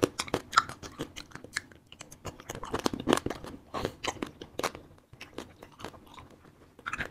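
A person chewing and biting fruit-filled wax candy, heard as many short, irregular clicks.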